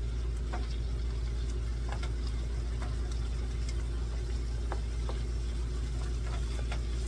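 A steady low mechanical hum with faint, scattered ticks and sizzle from ground meat browning in a frying pan.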